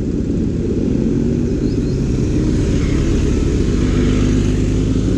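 BMW S1000RR's inline-four engine with an SC Project titanium exhaust running steadily at low revs, slowly getting a little louder.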